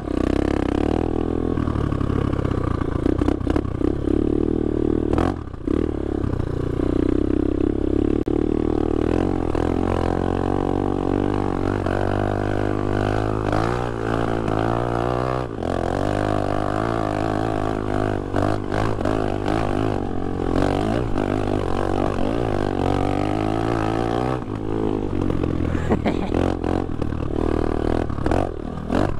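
Off-brand Chinese 250cc dirt bike engine running while being ridden, a steady drone whose pitch rises and falls repeatedly through the middle as the throttle is worked.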